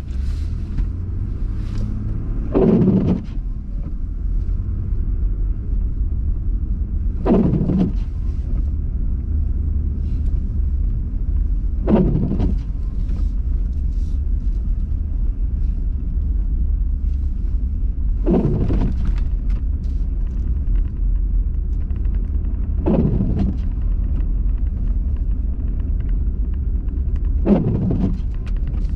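Steady low rumble of a car's engine and tyres heard from inside the cabin while driving, with the windshield wipers sweeping six times, a short swish about every four and a half seconds.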